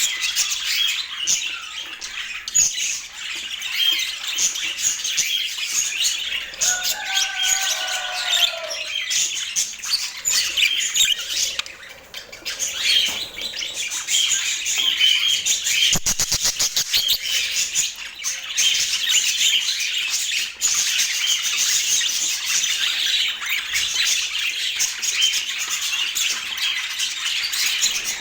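Budgerigars chattering continuously with chirps and squawks. About seven seconds in comes a lower, drawn-out call that falls in pitch, and around sixteen seconds a brief rapid rattle.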